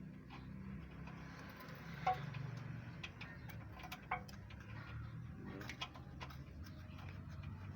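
Scattered light clicks and taps of hand tools working on an engine's valve tappets during clearance adjustment, with a few sharper ticks about two, four and six seconds in, over a low steady hum.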